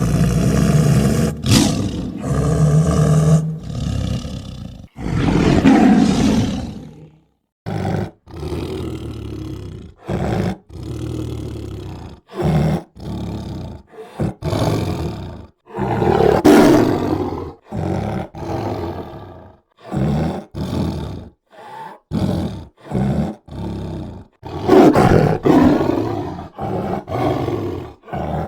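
Tiger roaring again and again: a string of deep roars, some long and some short, with brief gaps between them. The biggest roars come in the first seconds, about halfway through, and near the end.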